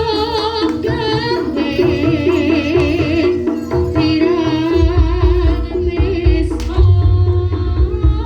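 Live Javanese jaranan music: a gamelan-style band with a melody of steady struck-metal notes stepping up and down, a high melody line with heavy vibrato over it, and kendang drumming underneath. The low drum strokes get heavier about five seconds in.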